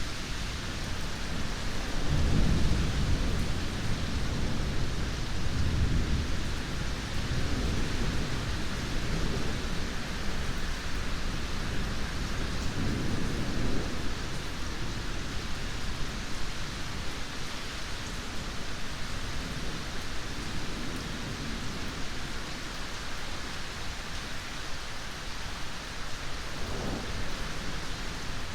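Steady heavy rain with rolling thunder. A low rumble of thunder swells a couple of seconds in, with further rumbles following, and the rain goes on alone and steadier later on.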